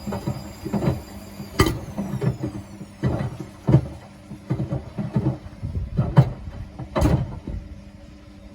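Frozen cider tumbling in a washing machine drum, giving irregular knocks and clunks as the drum turns, with two sharp bangs, one early and one near the end. The machine's motor hums steadily underneath.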